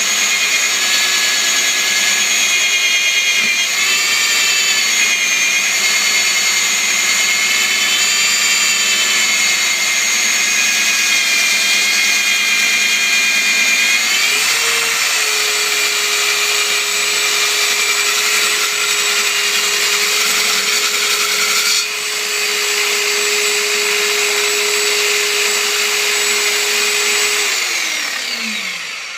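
Electric metal-drilling machine running, its motor whining with tones that shift under load in the first half, then holding a steady hum; near the end the pitch falls as the motor winds down.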